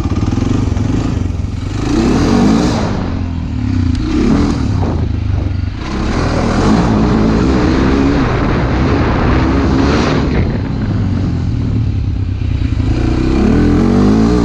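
Motorcycle engine pulling under way, its pitch climbing and dropping several times as it revs up and eases off, over steady wind noise.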